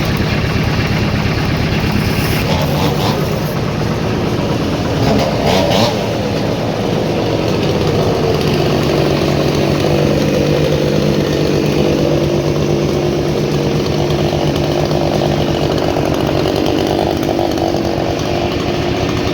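Sawmill machinery running: an engine-driven saw cutting wood over a steady engine hum, with a brief louder moment about five seconds in.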